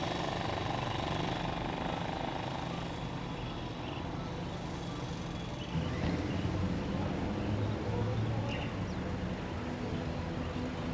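A steady low engine hum under outdoor background noise, a little louder about halfway through.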